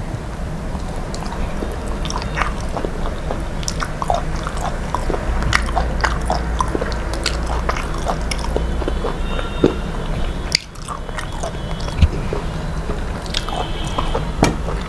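A person eating with a mouth close to the microphone, chewing and biting with many small wet clicks and smacks, over a steady low hum.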